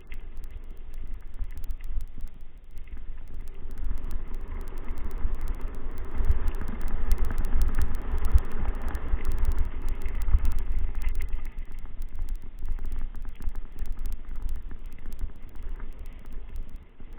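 Wind buffeting the microphone while on the move, a heavy low rumble that swells through the middle, with faint rattling clicks throughout.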